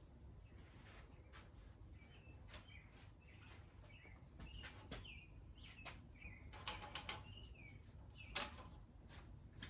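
Faint scattered clicks and light knocks from handling parts during the fork rebuild, with brief falling chirps of birds in the background several times.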